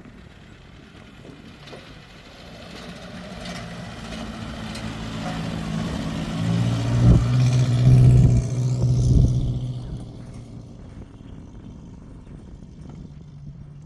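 Motor vehicle engine passing close by: it grows louder over several seconds, peaks about two-thirds of the way through, then fades away.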